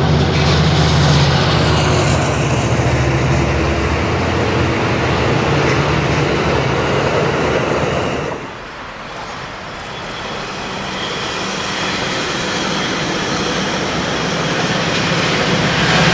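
Train passing, a loud low drone with steady rushing noise; the sound drops off sharply about eight seconds in, then builds up again.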